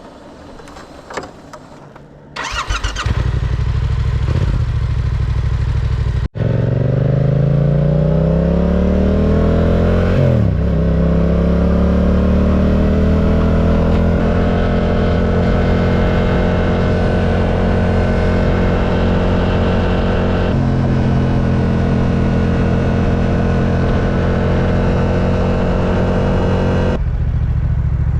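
Yamaha R7's parallel-twin engine started after a few quiet clicks, then idling. Its pitch climbs over several seconds and dips briefly about ten seconds in, then holds a steady idle.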